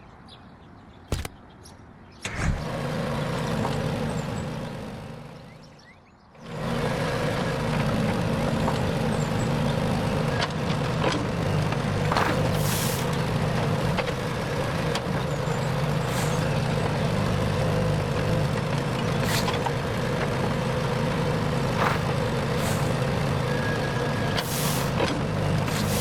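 A small motor, most likely driving a homemade miniature concrete machine, runs up and fades away, then starts again about six seconds in and runs steadily. A few light clicks sound over the hum.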